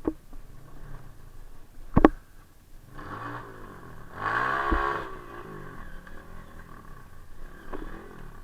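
Trail motorcycle engine revving up and back down briefly in the middle, then running low. Two sharp knocks come before it, one at the start and one about two seconds in.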